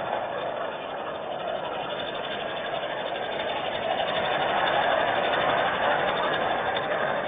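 Steady hiss of falling rain, an even continuous patter that swells slightly a little past the middle.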